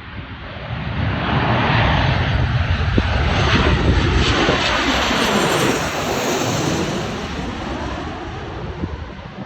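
Boeing 737 jet airliner passing close by, its engine noise swelling about a second in, staying loud for several seconds with a deep rumble, then fading.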